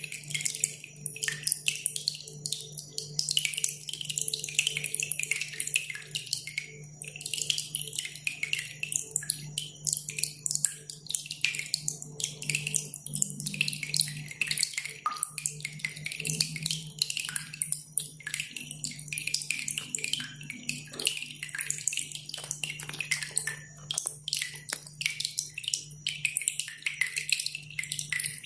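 A cililin bird singing a loud, tightly packed song of rapid high-pitched chirps without pause, mixed with water dripping. A faint steady low hum lies underneath.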